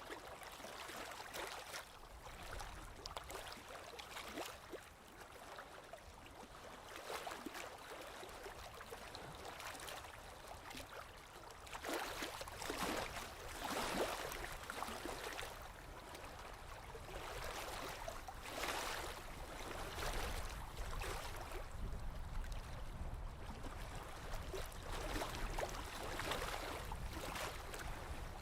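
Small waves lapping against a lake shore: soft, irregular splashes every couple of seconds, with a steady low rumble underneath.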